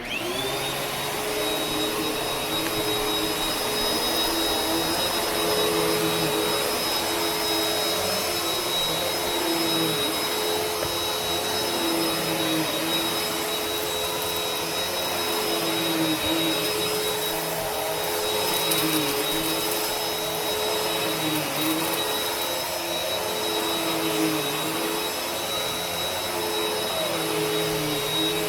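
Vacuum cleaner switched on, its motor whine climbing quickly to speed, then running steadily with a high whine over the rush of air. The lower hum dips briefly in pitch every few seconds.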